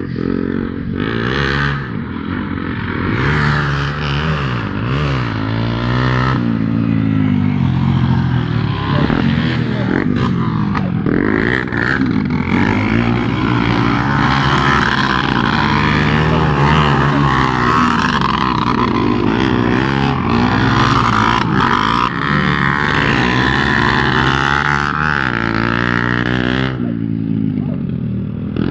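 Motorcycle engines running and revving, the pitch rising and falling again and again. The engine sound drops off suddenly near the end.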